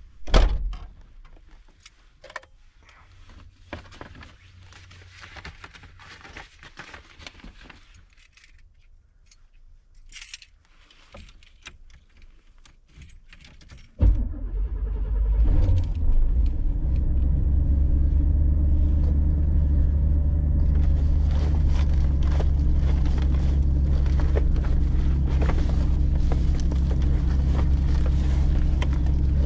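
A loud thump about half a second in, then quiet small clicks and key rattles. About halfway through, the 1989 Chevy G20 van's engine starts suddenly and settles into a steady idle, warming up.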